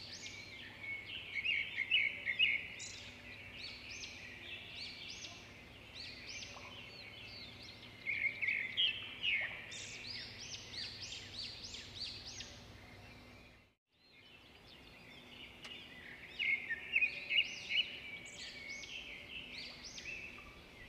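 Small birds chirping in quick clusters of short, high calls, coming in several runs over a low steady background. The sound drops out completely for a moment about fourteen seconds in, then the chirping resumes.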